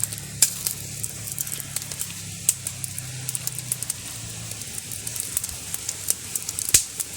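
Wood bonfire crackling and popping, with many sharp snaps and one loud pop near the end.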